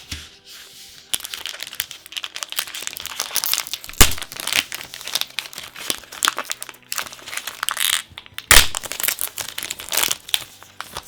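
Plastic packaging being torn open and crinkled in the hands, a dense run of crackling with two sharp, louder snaps partway through.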